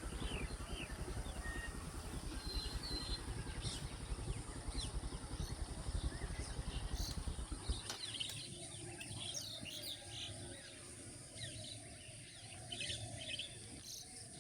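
Birds chirping and calling, over a steady low rumble that cuts off suddenly about halfway through.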